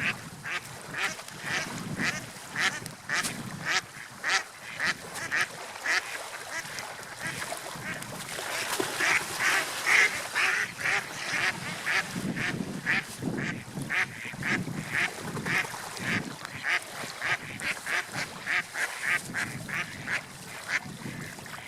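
A bird calling in a rapid series of short, harsh calls, about two or three a second, loudest around the middle, over a faint low background of water or wind.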